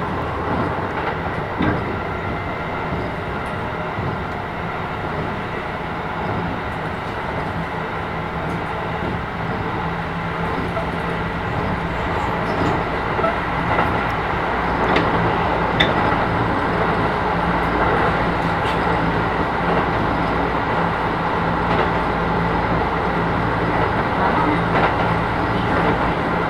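Interior running noise of a Keisei 3000 series electric train car, which has a Toyo IGBT-VVVF inverter: a steady rumble of wheels on rail. A low steady hum grows stronger from about ten seconds in, with a few light clicks.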